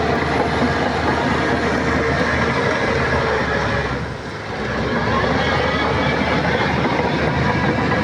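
Shantui crawler bulldozer working: steady diesel engine drone with the rattle of its steel tracks, dipping briefly about halfway through before picking up again.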